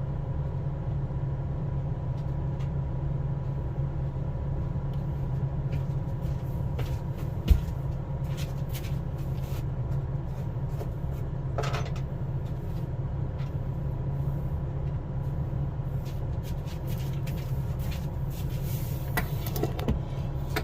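A vehicle running with a steady low rumble, with scattered clicks and rattles and one sharp knock about seven and a half seconds in.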